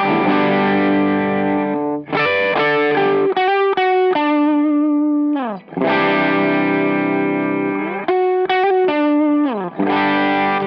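Electric guitar played through an Olinthus Cicada overdrive pedal, a TS808 Tube Screamer copy, with the drive at zero and the tone in the middle, giving a lightly driven tone. Strummed chords ring out, with notes sliding down between them and two brief breaks where the chords are cut off.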